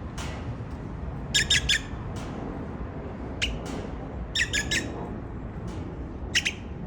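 Great-tailed grackle giving short, sharp calls, some singly and some in quick runs of three, with gaps of a second or more between them.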